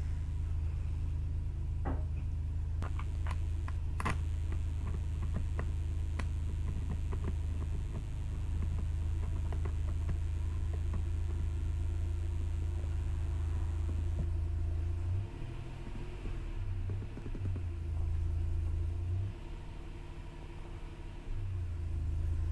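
A steady low rumble runs under small clicks and taps from handling camera gear, most of them a few seconds in. Near the end the rumble keeps cutting in and out.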